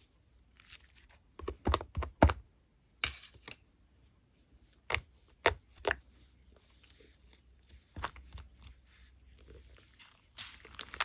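Slime being squeezed and worked by hand, giving irregular sharp clicks and pops with quieter soft squishing between them.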